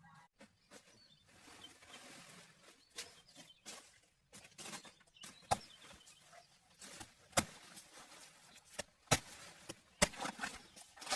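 Irregular sharp knocks and taps, sparse at first and coming several a second toward the end, over a faint outdoor background.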